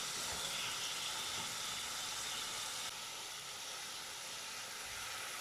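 Diced chicken breast sizzling as it fries in a pot, a steady hiss that drops slightly about halfway through.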